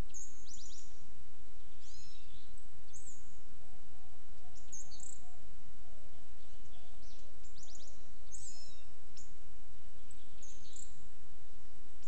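Wild birds giving short, high chirps and quick falling calls, in small clusters every second or two, over a steady low background rumble.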